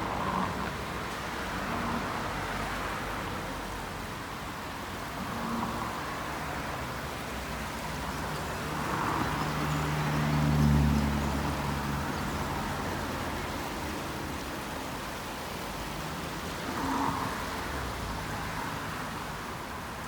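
Wuppertal suspension railway running: a steady rushing noise, with a louder low rumble that swells and fades about halfway through.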